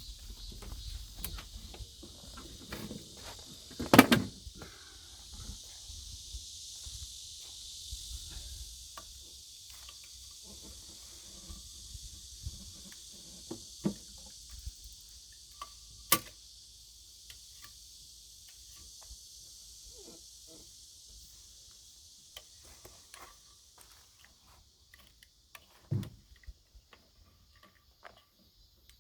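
Scattered knocks and clicks, the sharpest about four, sixteen and twenty-six seconds in, over a steady high hiss.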